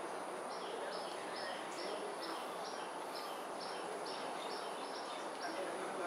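A bird calling a quick series of about a dozen short, high notes, a little over two a second, each note dropping in pitch, over steady background noise and a thin high hiss.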